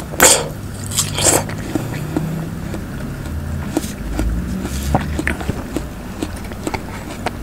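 A person biting into a slice of watermelon: two loud bites in the first second and a half, then steady chewing with many small clicks.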